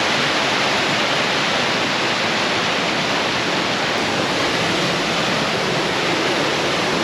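Waterfall rushing steadily, a creek in high flow after rain pouring down a rock slide into a pool.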